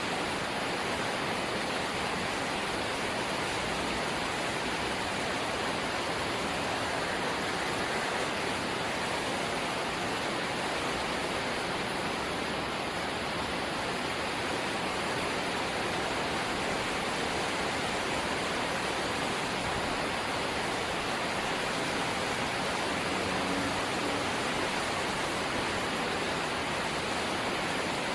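Light rain falling steadily: an even hiss with no single drops standing out.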